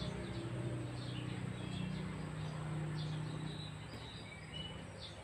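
Small birds chirping with short whistled calls, over a steady low hum.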